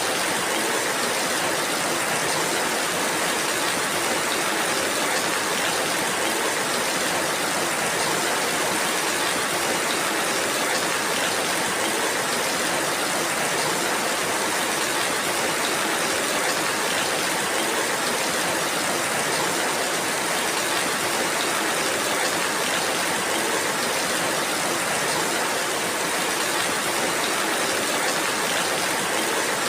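Steady rainfall: an even, unbroken hiss of rain that holds the same level throughout.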